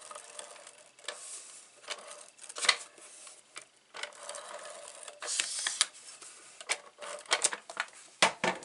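Paper and card stock being handled and pressed together on a tabletop: irregular light clicks, taps and short rustles, with one longer rustle of paper sliding about halfway through.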